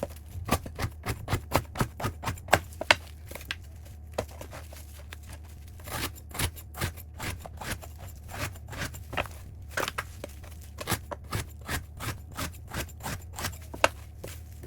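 Metal spatula clacking and scraping against a cooking pan while stir-frying rice, in irregular sharp knocks about two to three a second that pause for a few seconds in the middle, over a steady low hum.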